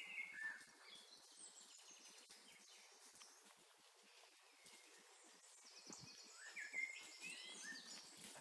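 Faint wild birdsong: short chirps and whistled calls near the start and again about two-thirds of the way through, over a quiet woodland background with an occasional faint crackle.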